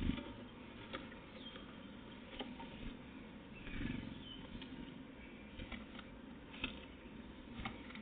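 Faint outdoor bird-watching microphone sound: scattered light clicks and taps, a few low thumps, the strongest right at the start and about four seconds in, and several short, faint high bird chirps.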